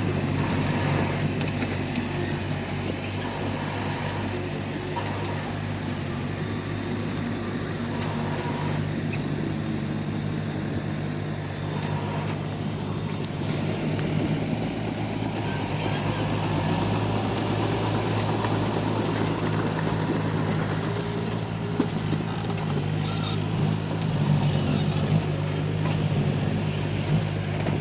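Komatsu D31P bulldozer's diesel engine running steadily with a low, even drone, and a few short knocks near the end.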